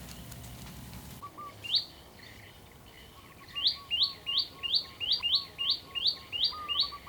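A bird chirping in a quick run of short, rising, high chirps, about three a second, starting a few seconds in, over a fainter, steady lower whistle.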